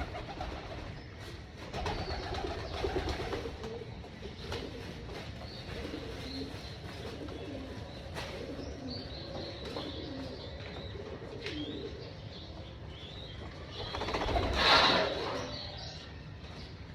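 A flock of domestic pigeons cooing continuously, with scattered sharp clicks. A brief louder rustling burst about three-quarters of the way through.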